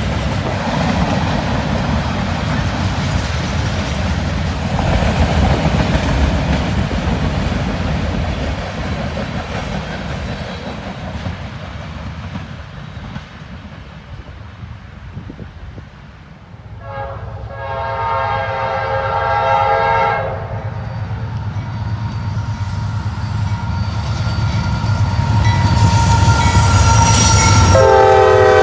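Train passing with a low rumble and wind noise. More than halfway in, a locomotive's multi-note air horn sounds for about three seconds while the engine rumble grows. The horn blows again near the end.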